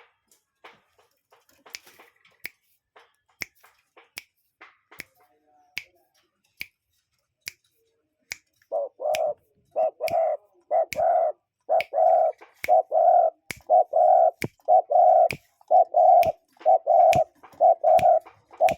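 A bird calls in repeated low hooting notes, grouped in twos and threes, starting about halfway through and going on steadily. Sharp, regular clicks sound all through, about one a second.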